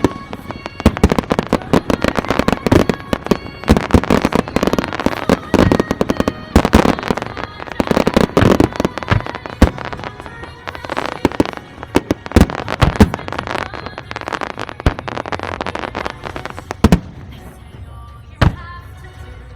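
Fireworks bursting in a dense barrage, many sharp bangs and crackles in quick succession that thin out to a few scattered bangs near the end, with music playing underneath.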